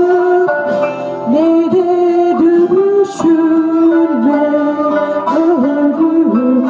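A voice singing a Turkish folk song melody over acoustic accompaniment, the voice moving through held notes with quick slides between them.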